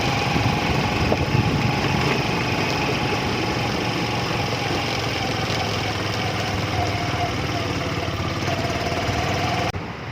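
Small single-cylinder motorcycle engine running steadily with a pulsing low beat, along with wind and road noise while riding; the sound breaks off abruptly near the end.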